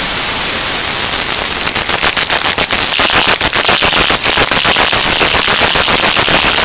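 Loud harsh static hiss, crackling rapidly from about a second and a half in. About three seconds in, a fast pulsing high tone joins it.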